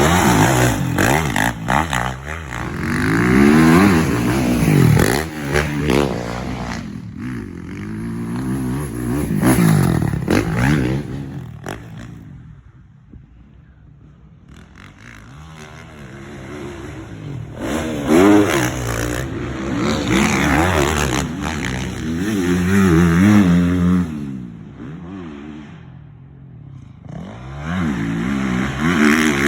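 Motocross bike engine revving up and down again and again as the bike accelerates and shifts, easing off to a quieter stretch for a few seconds near the middle.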